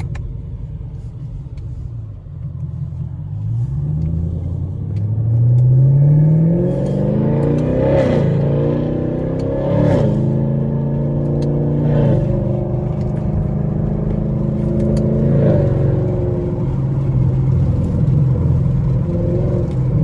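Straight-piped Chevrolet Camaro SS V8 exhaust under acceleration. The engine note climbs in pitch for several seconds, then drops and rises again a few times through gear changes.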